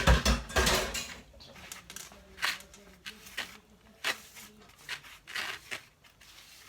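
Kitchen handling noises: a loud bump with a rustle at the start, then about five short, sharp scrapes and clatters of dishes and utensils being moved about on the counter.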